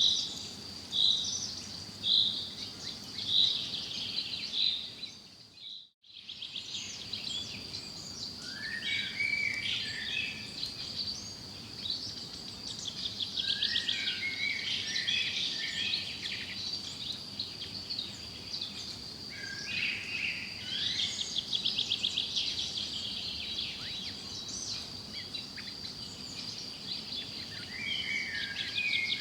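Several wild birds singing and chirping in a forest chorus. A regular chirp repeats about once a second at first, then comes a mix of varied calls and fast trills over a steady high tone. The whole sound fades out briefly and returns about six seconds in.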